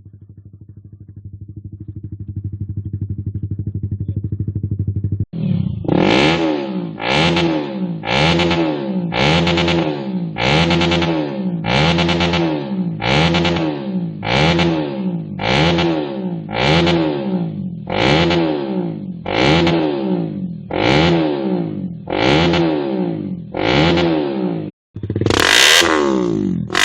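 Honda Sonic 150R's single-cylinder four-stroke engine through an R9 aftermarket exhaust, idling steadily for the first few seconds. After a cut it is revved in short throttle blips about once a second, each rising and falling in pitch, with a few longer, higher revs near the end.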